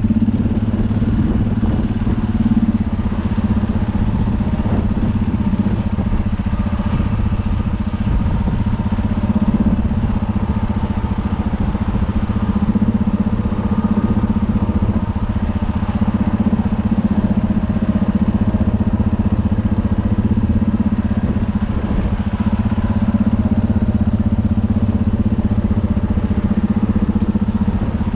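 Universal U650 tractor's four-cylinder diesel engine running steadily at a constant speed.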